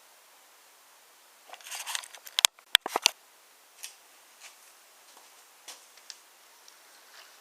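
Wooden toy train pieces clacking: a flurry of light clicks and rattles about two seconds in, ending in three sharp clacks, then a few scattered faint clicks.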